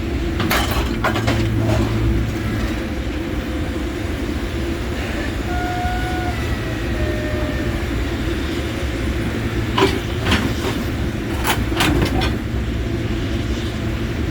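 Heavy scrap-handling machine's engine running steadily while a lifting magnet unloads cast iron radiators and boilers from a pickup bed. Clusters of metal-on-metal clanks come about half a second in, near ten seconds and around twelve seconds, with a few faint squeals in between.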